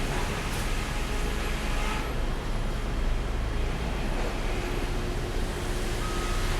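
Sawmill machinery running steadily with a low hum and a constant clatter, and a reversing beeper giving a short high beep near the end.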